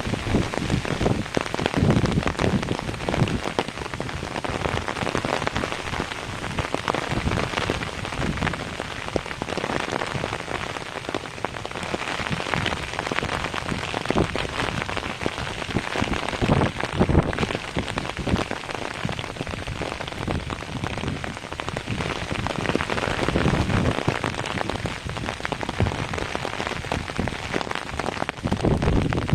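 Heavy rain pouring down, a dense steady patter of countless drops striking surfaces.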